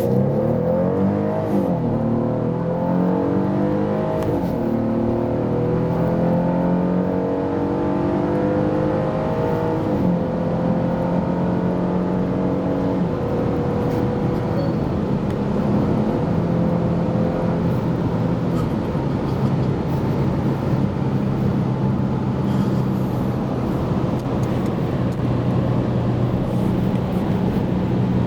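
The 300 bhp 3.6-litre V6 of a 2011 Porsche Cayenne under full-throttle kickdown acceleration in Sport mode. The engine note climbs in pitch through each gear and drops back as the Tiptronic S automatic shifts up several times, then rises more slowly in the higher gears.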